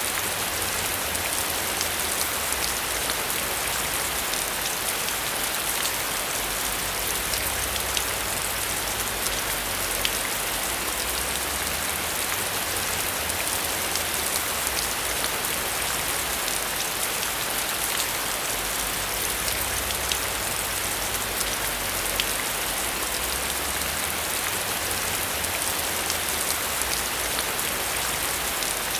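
Steady heavy rain: a dense hiss of rainfall peppered with many sharp drop ticks, over a low rumble that swells and fades underneath.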